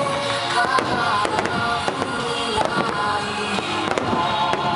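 Aerial firework shells bursting and crackling in rapid, overlapping pops, together with music with held notes.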